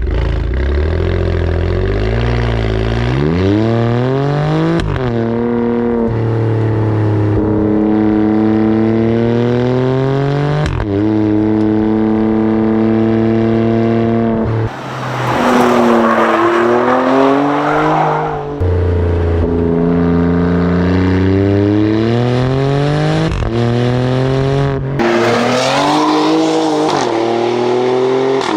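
Performance car engine and exhaust under hard acceleration. The engine note climbs steadily, then drops suddenly at each upshift, several times over. About halfway through there is a louder, rougher stretch.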